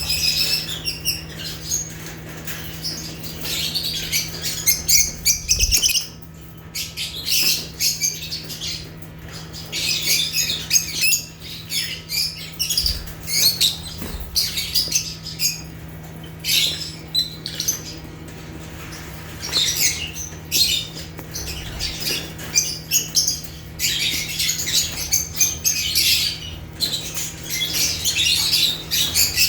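Lovebirds (Agapornis) chattering and squawking in rapid high-pitched bursts that come and go in clusters, over a low steady hum.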